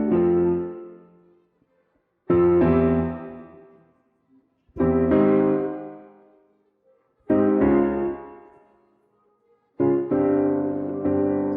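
Piano accompaniment from a musical-theatre backing track with the vocal removed: chords struck about every two and a half seconds, each left to ring and fade almost to silence before the next. Near the end the playing runs on without a break.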